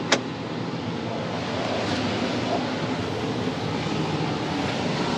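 A single sharp click of a light switch being flipped in a tractor cab, followed by a steady mechanical drone.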